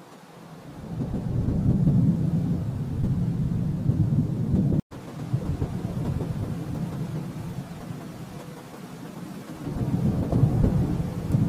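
Rolling thunder: a low rumble swells up within the first second or two, breaks off for an instant about five seconds in, eases off, then rolls in again near the end.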